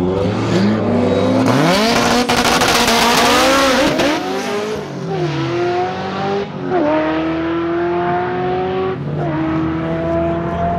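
Drag race car launching and accelerating hard. The engine revs and climbs in pitch, then pulls through the gears, dropping in pitch at each upshift, three times.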